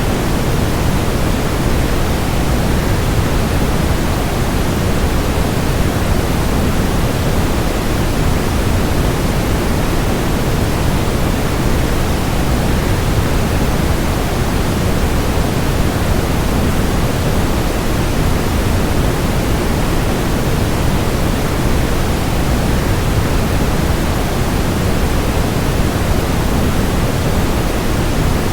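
Waterfall rushing in a steady, unchanging roar of even noise, heaviest in the low end.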